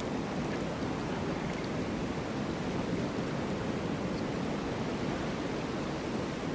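Snowstorm wind blowing steadily, an even rushing noise without gusts or breaks.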